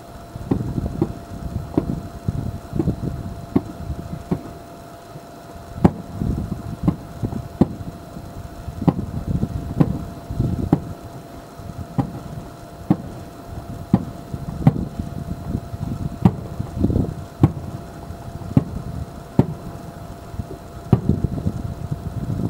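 Distant aerial fireworks going off: an irregular run of sharp bangs and deep booms, roughly one a second and sometimes several in quick succession, over a continuous low rumble.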